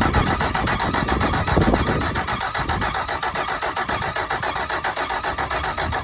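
Mercury 75 hp four-stroke outboard turning over on its electric starter, with fast, even chugging pulses, cranking without firing or catching.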